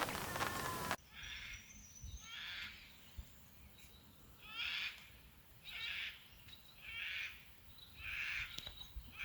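Rain on a camper awning for about a second, then, after a cut, a bird calling over and over, a short call roughly once a second.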